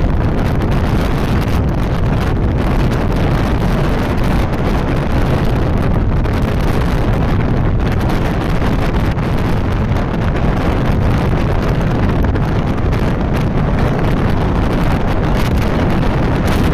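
Heavy wind buffeting the microphone on a moving motorcycle: a loud, steady rush that drowns out the engine and road sound.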